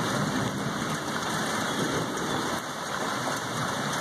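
Steady rain falling, with a low rumble of thunder that fades a little after two seconds in.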